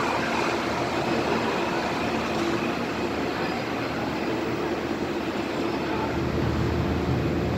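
Metro-North M3 electric multiple-unit train pulling away, a steady rumble of wheels on rails and running gear as it recedes down the track.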